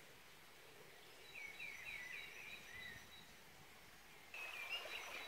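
Faint birdsong over a low outdoor hush: a songbird sings a run of short chirping, warbling phrases about a second in, and another short phrase near the end.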